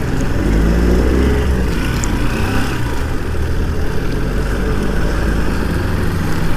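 Motor vehicle engine running under way, rising in pitch in the first second or so and then steady, with constant road and wind noise, heard from on board.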